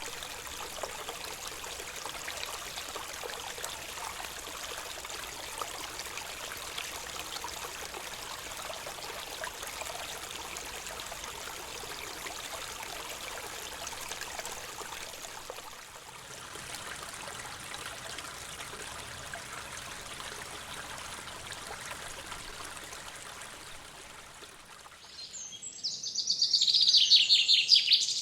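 Running water of a small stream, a steady rushing and trickling, with bird calls. Near the end a bird sings loudly close by, a fast run of high repeated notes.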